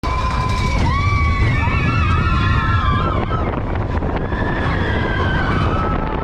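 Steady low rumble of wind on the microphone. Several wavering high tones ride over it for about three seconds, then return more faintly near the end.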